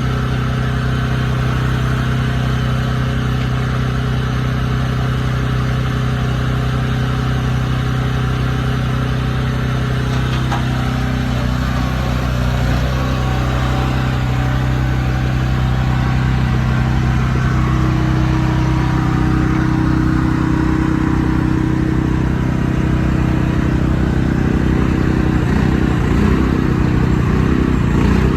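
A large truck engine running steadily. Its note shifts and grows a little louder in the last third.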